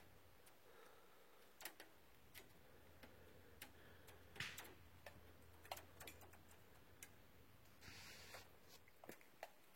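Near silence with faint, irregular clicks and ticks and a couple of brief soft rustles.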